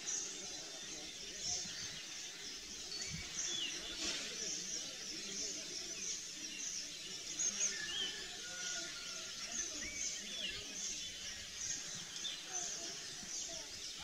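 Outdoor bird chirps and short calls, over a steady run of high chirps repeating about twice a second.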